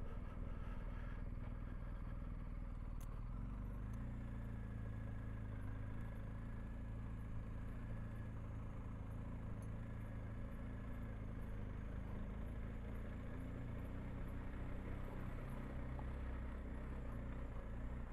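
Motorcycle engine running steadily at low road speed, its sound low in pitch and even, settling into a constant note a few seconds in.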